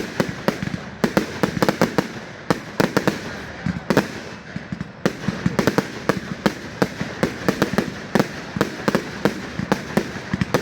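Fireworks display: a rapid, uneven barrage of sharp bangs and cracks, several a second, over a constant background noise.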